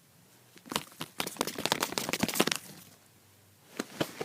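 Paper puppet being handled, the paper crinkling and rustling in quick clusters of small crackles. They start under a second in, pause about three seconds in, and start again near the end.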